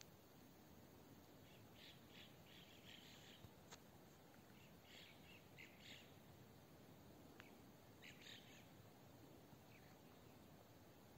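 Near silence with faint, short bird chirps in small clusters every couple of seconds over a low steady hiss, and a couple of faint ticks.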